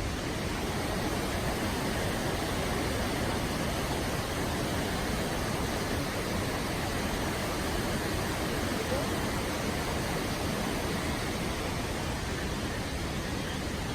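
Steady rushing of the Krka River's water, an even noise with no breaks.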